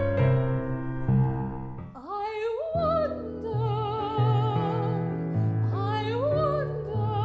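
Piano chords, then about two seconds in a soprano voice comes in with a wordless line sung with wide vibrato over the piano, sliding up into each phrase. A second phrase begins near the end.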